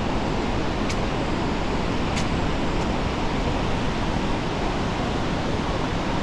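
Steady rush of water from the Río Verde at the Pailón del Diablo waterfall, with two faint clicks about one and two seconds in.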